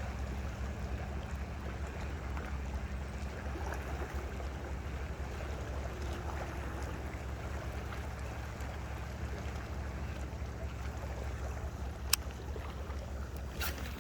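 Steady low hum, as from a running motor, under an even wash of water or wind noise, with a sharp click about twelve seconds in and another just before the end.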